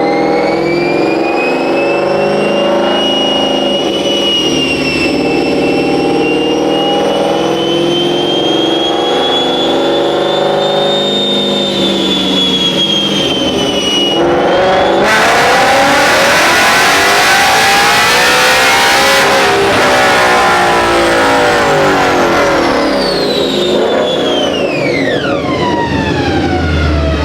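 A vehicle engine running at slowly rising and falling revs with a high whine. About fifteen seconds in there is a loud rushing stretch of several seconds, and near the end the whine falls steeply as the engine winds down.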